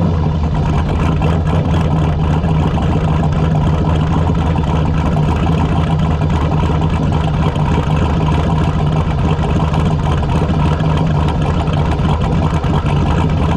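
A drag car's engine running steadily at one constant speed, with a deep, even note that neither rises nor falls.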